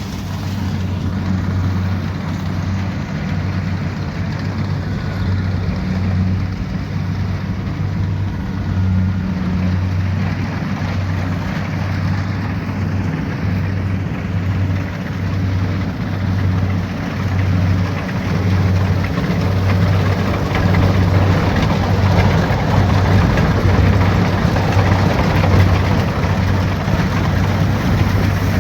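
Kubota DC70 Pro combine harvester's diesel engine running steadily under load, with the mechanical noise of the machine growing louder over the second half.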